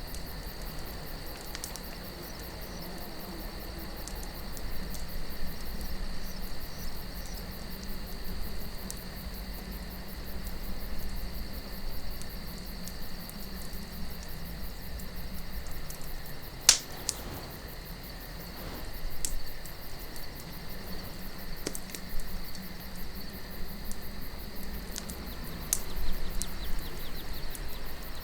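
Campfire of burning wood crackling, with scattered sharp pops, the loudest about seventeen seconds in, over a soft, steady low wind. Crickets chirr steadily throughout.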